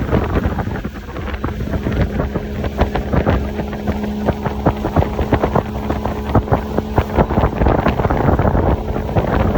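Motorboat engine running steadily under way, with wind buffeting the microphone and frequent short slaps and knocks throughout.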